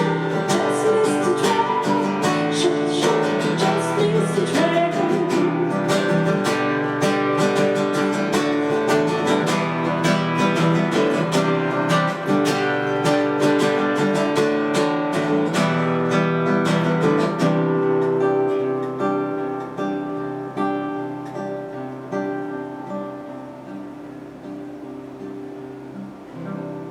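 Acoustic guitar outro: steady rhythmic strumming for about seventeen seconds, then slower single notes that ring on and fade away.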